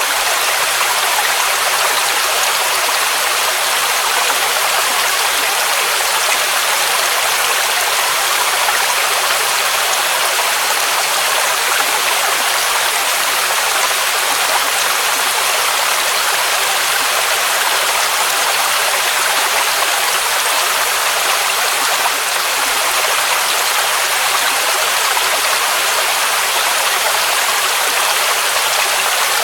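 Waterfall rushing: a steady, unbroken hiss of falling water, bright and thin with almost no low rumble.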